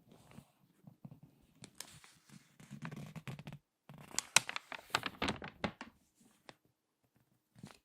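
Crinkly magazine pages being handled, turned and squeezed by hand, giving a run of close-up paper crinkles and crackles. The crackling is densest through the middle, with a brief pause and then a quick cluster of sharp crackles about four to six seconds in.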